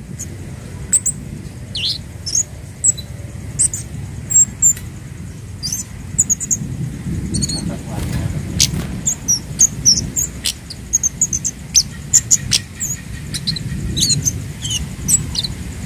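Scarlet-headed flowerpecker (Javan kemade) calling: many short, high, thin chirps and ticks at irregular intervals over a low rumbling background.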